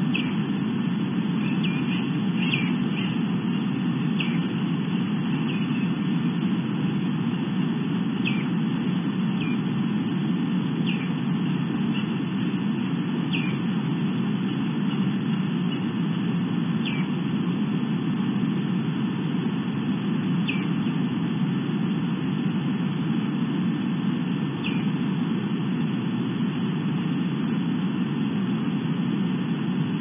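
An unidentified bird calling: a short, high, downslurred note repeated about a dozen times, one to four seconds apart, more spaced out in the second half. Under it runs a steady low rumble of background noise.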